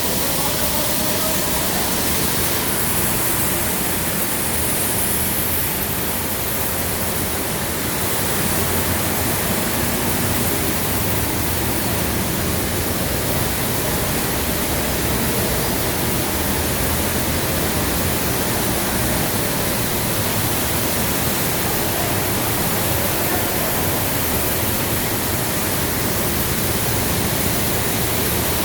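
Grain vacuum running: a loud, steady rushing noise without breaks.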